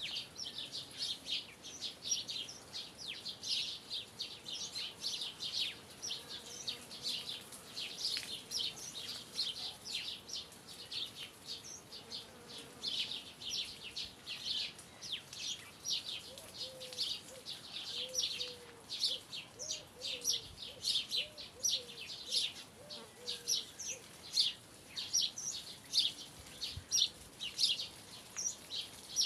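Birds chirping: a dense, unbroken run of short, high chirps from several birds.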